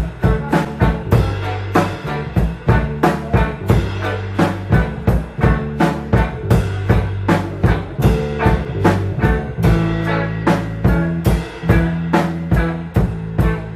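A rock band playing live in an instrumental passage: drum kit keeping a steady beat, with bass guitar and electric guitar.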